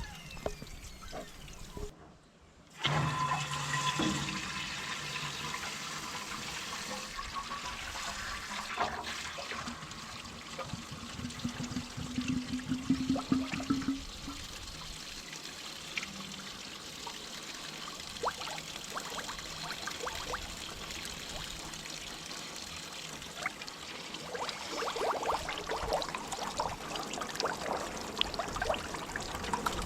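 Water being forced backward through a Massey Ferguson 245 tractor's radiator and pouring and splashing out as it is back-flushed to clear out dark sediment. A short rising hum comes in about midway.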